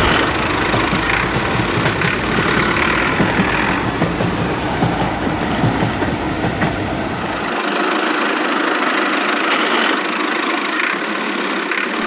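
A small motor running steadily with a rattly, clicking mechanical noise. Its deep rumble drops away about seven and a half seconds in.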